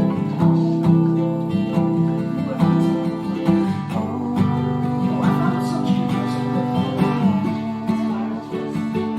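Acoustic guitar being played, plucked notes ringing over held lower notes.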